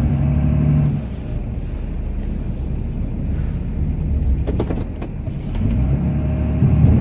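Cummins turbo-diesel straight-six of a Ram pickup running under load, heard from inside the cab; the engine eases off about a second in, a few short clicks come near the middle, and it revs back up and grows louder over the last second or two.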